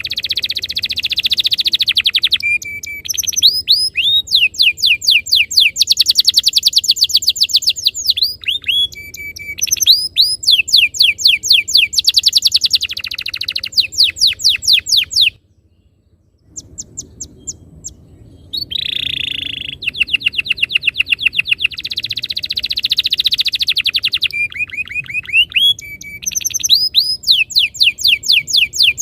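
Domestic canary singing a long rolling song: rapid trills of quickly repeated sweeping notes, phrase after phrase, with a brief break about halfway through.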